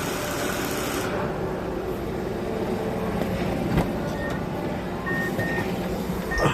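Mazda Atenza's 2.3-litre L3 four-cylinder engine running steadily, with two short clicks. Faint, short high beeps repeat over the second half.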